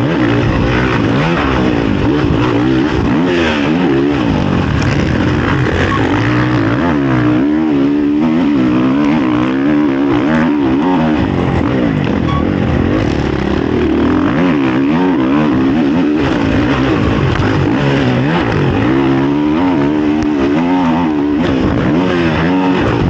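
Honda CRF450 motocross bike's four-stroke single-cylinder engine at race pace, heard onboard, its pitch rising and falling over and over as the rider opens and closes the throttle lap after lap.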